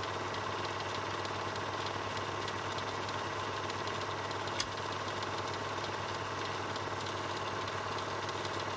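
Film projector running: a steady motor hum with the fast, even clatter of film through the mechanism, and one sharper click about halfway through.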